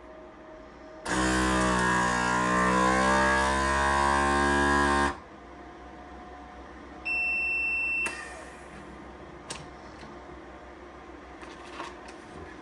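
Vacuum sealer pump motor running for about four seconds with a slightly shifting pitch, starting and stopping abruptly, then a single beep about a second long, the signal that the sealing cycle has finished, followed by a few light clicks.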